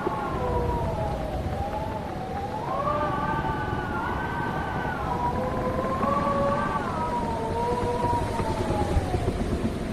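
Howling wind: several wavering whistling tones that slowly rise and fall together, over a steady low rumble.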